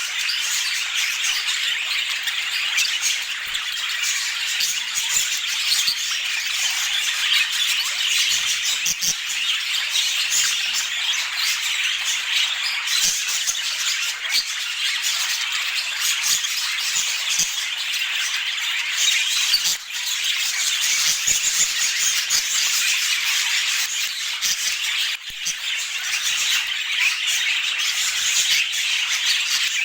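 Many budgerigars chattering and squawking together: a dense, steady stream of high, scratchy chirps and warbles.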